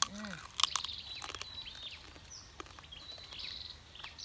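Crunching and chewing of crispy deep-fried pork fat and skin, several sharp crunches, with small birds chirping in the background.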